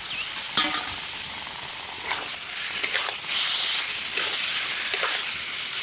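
Raw chicken pieces sizzling in hot oil and masala in a steel kadhai, just added to the pan. The sizzle swells in the middle. A steel spatula stirs through them, scraping against the pan about five times.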